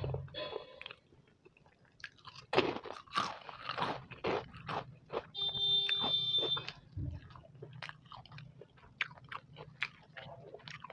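A person chewing mouthfuls of khichdi eaten by hand, close to the microphone: a run of chewing sounds and short mouth clicks. About halfway through, a steady electronic-sounding tone like a buzzer sounds for about a second and a half.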